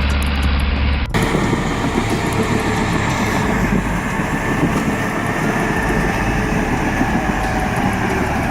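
Heavy vehicle engine running loudly with a dense, noisy rumble. The sound changes abruptly about a second in, where a low steady hum gives way to a rougher, noisier rumble.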